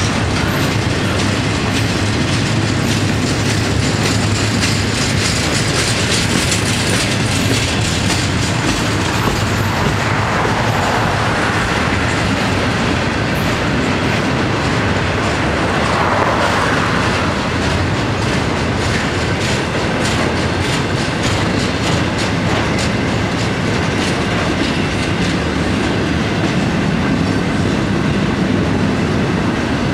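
Florida East Coast Railway intermodal freight cars rolling past close by: a steady rumble of steel wheels on the rails, with a dense run of clicks as the wheels pass over the track.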